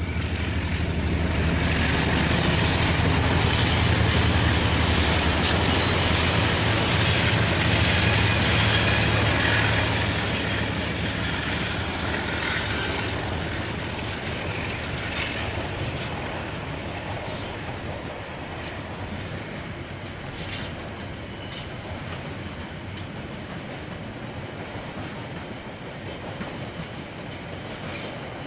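KiwiRail diesel-hauled train passing: the locomotive's low engine hum and the rolling noise build and are loudest during the first ten seconds, with a brief high-pitched wheel squeal. The wagons then roll past with scattered clacks over the rail joints as the sound slowly fades.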